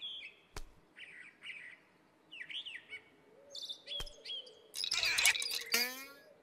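Birds chirping and tweeting in short rising and falling calls, with a sharp click about half a second in and another about four seconds in. Near the end comes a louder, busier stretch of calls with a quick run of falling whistled notes.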